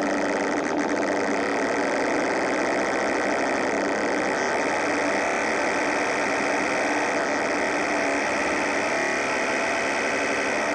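Synthesizer playing a steady, gritty, buzzing drone with a fast grainy flutter.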